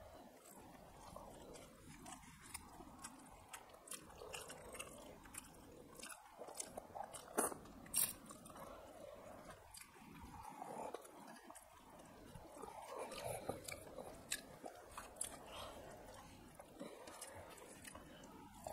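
Close-up eating sounds of two people eating rice and fish curry by hand: chewing, with many short sharp clicks scattered through, the loudest a little past the middle, as fingers work the food on steel plates.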